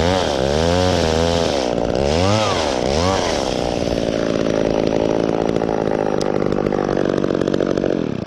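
Two-stroke chainsaw cutting a branch up in a tree. The engine pitch swings up and down several times as the throttle is worked, then holds at one steady high pitch through the cut and drops off sharply near the end as the throttle is released.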